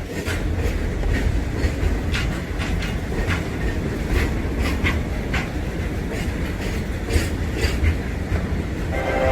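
Freight train rolling past, its wagon wheels clacking over the rail joints over a steady low rumble.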